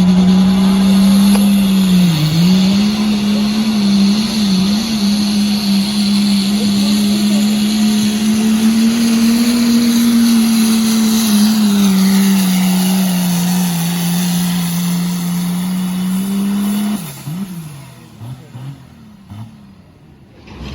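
Turbo diesel pickup held at full throttle under the load of a pull, running steadily at high revs with a high turbo whistle over it. The pitch dips briefly twice, and part of the whistle falls away about halfway. About 17 seconds in, the engine abruptly drops off throttle and winds down, with a few short blips before it goes quiet.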